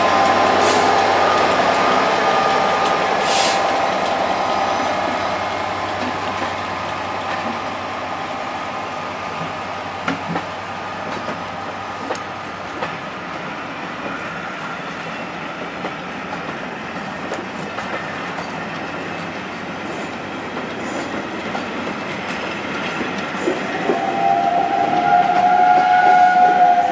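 A diesel-hauled rake of passenger coaches rolling slowly past along a station platform, its running hum fading as the locomotive moves on, with scattered wheel clicks over rail joints. About 24 seconds in, a train whistle sounds one long steady note.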